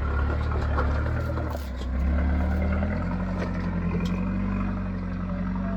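Four-wheel-drive engine running steadily; its low note changes about three seconds in.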